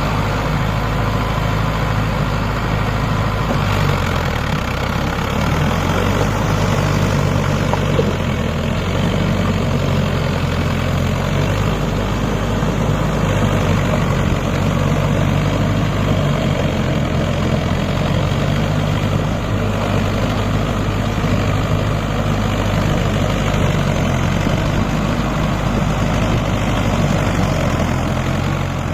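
Mahindra 555 tractor's diesel engine running steadily, its pitch dipping briefly about four seconds in.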